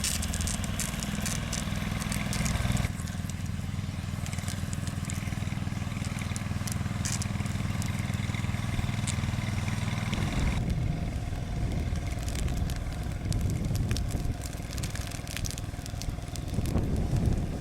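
A vehicle engine running steadily under crackling and crunching noises. The sound changes abruptly about three seconds in and again about ten seconds in.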